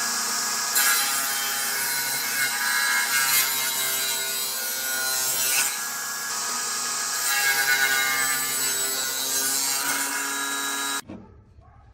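Power saw cutting through wood: a steady motor hum under the hiss of the blade in the wood. The sound stops suddenly near the end.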